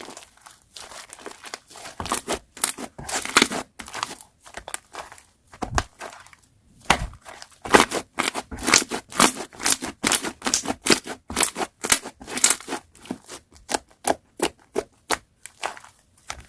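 Slime being squeezed, stretched and pressed by hand, giving runs of quick crackles and pops, sparse at first and densest after a short lull about six seconds in.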